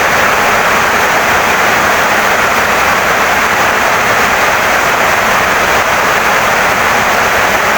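Heavy rain pouring down steadily on a wooden house, a loud, even hiss with no breaks.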